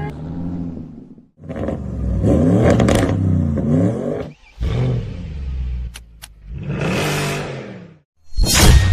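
Car engine revving in about five separate bursts with short gaps between them, the pitch rising and falling.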